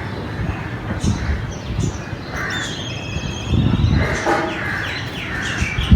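Birds calling: repeated harsh, crow-like caws mixed with higher chirps.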